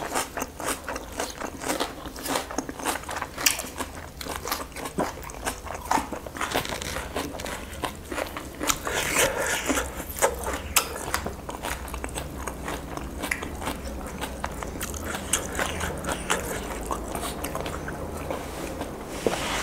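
Close-miked eating: chewing and biting into roast chicken and vegetables by hand, with irregular wet mouth clicks, smacks and small crunches.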